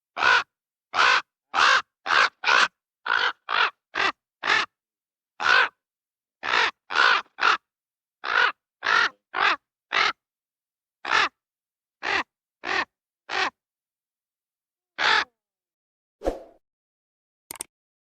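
Raven calling: about twenty short, harsh, croaking calls, often in quick runs of two to four, with gaps of silence between them. Near the end there is one lower, shorter sound and a click.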